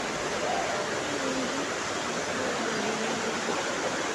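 Steady rushing hiss of heavy monsoon rain and running water, with faint voices underneath.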